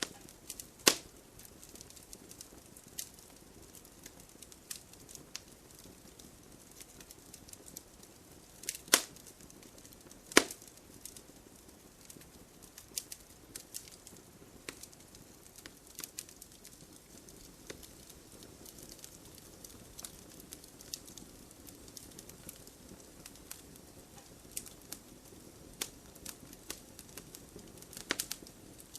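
Wood fire in an open fireplace crackling: sharp pops and snaps at irregular intervals over a faint steady hiss. The loudest pops come about a second in and again around nine and ten seconds in, with a quick run of snaps near the end.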